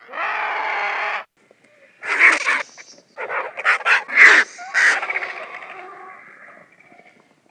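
Animal calls: one steady call about a second long, then after a pause a run of several harsh, sharp calls that trail away.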